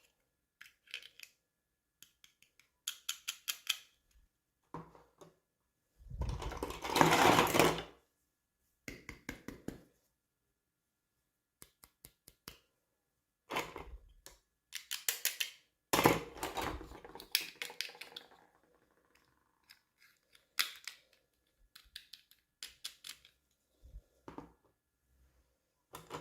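Hands unboxing a toy: irregular clicks, snips and rustles of packaging, with a louder crinkling of plastic or paper about six seconds in and again near the middle.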